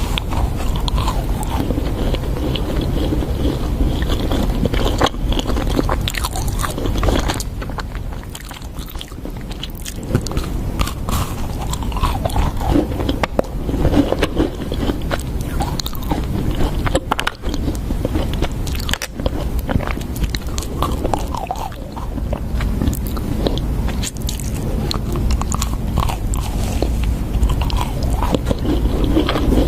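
Close-miked eating: bites into crunchy food followed by chewing, with many irregular crunches and crackles throughout.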